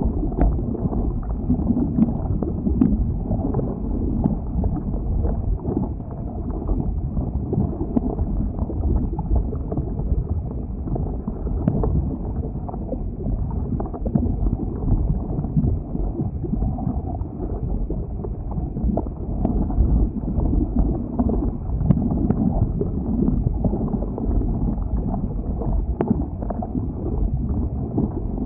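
Lava flow: a steady low rumble with a few faint sharp clicks and cracks scattered through it.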